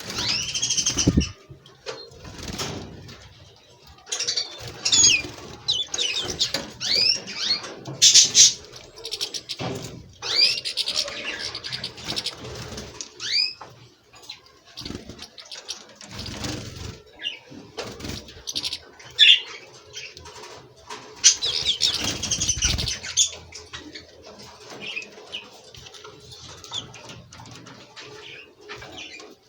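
European goldfinches twittering with repeated short high calls and quick upward glides, mixed with wing flutters and small knocks.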